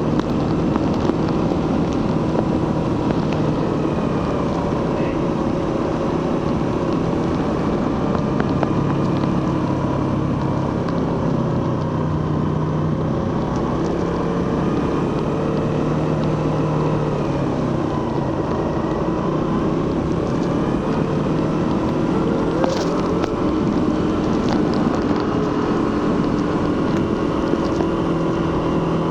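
Suzuki GSX-R150's 150 cc single-cylinder engine and stock exhaust running at fairly steady revs while cruising, the pitch easing gently up and down with the throttle. Wind rushes over the microphone.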